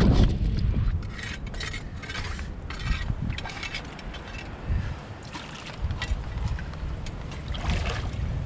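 Wind buffeting the microphone as a low rumble, with short rustling and clicking noises several times.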